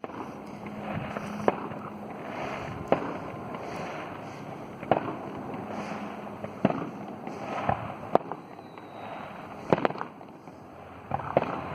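Fireworks going off at a display: about seven sharp bangs, one every second and a half or so, over a continuous noisy background.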